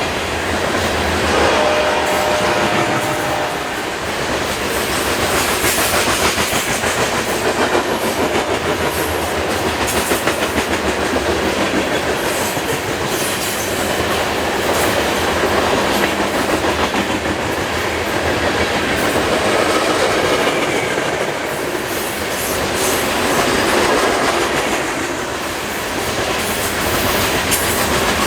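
Loaded coal train's hopper cars rolling past at speed: a steady rumble with wheels clacking over rail joints, swelling and easing in loudness.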